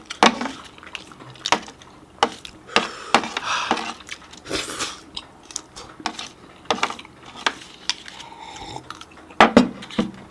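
Utensils clinking against plates and bowls at a meal: irregular, sharp clicks and clinks, with a short rustling burst about four and a half seconds in.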